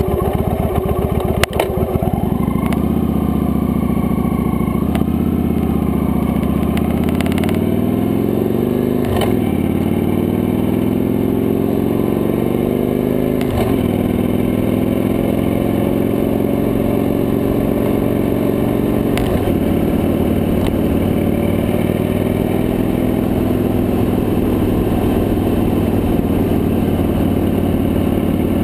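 Victory High-Ball cruiser motorcycle's big V-twin engine pulling away and accelerating. Revs climb and drop sharply at three upshifts in the first twenty seconds, then the bike cruises at a steady engine speed.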